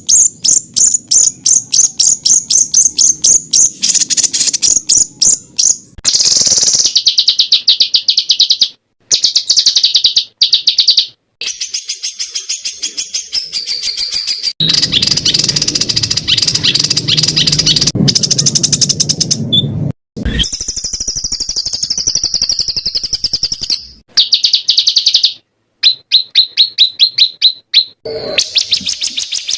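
Spliced recordings of small songbirds singing: fast, high-pitched chirps and rattling trills repeated many times a second, broken by abrupt cuts and short silences as one recording gives way to the next.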